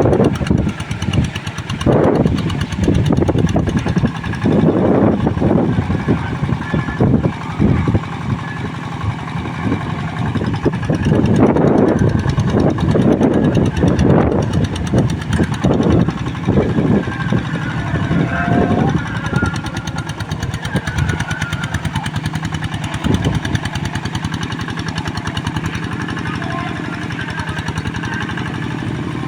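Two-wheel hand tractor's single-cylinder diesel engine running hard, its exhaust beating in fast pulses, while the tractor pulls a moldboard plough through soft, deep paddy mud. The loudness rises and falls in surges through the first half and settles slightly lower near the end.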